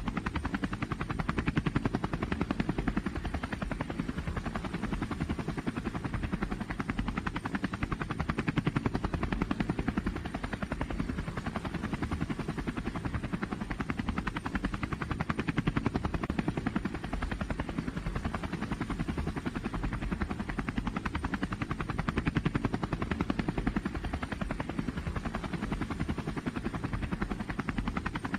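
A big pulling engine running steadily, with a low rapid-firing rumble that swells and eases slightly every few seconds.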